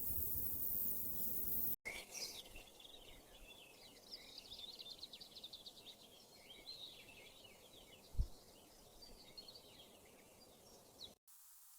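A steady rushing noise for the first couple of seconds, then a sudden change to many small birds chirping rapidly over a faint hiss. A single low thump about eight seconds in is the loudest sound; the birds stop abruptly near the end.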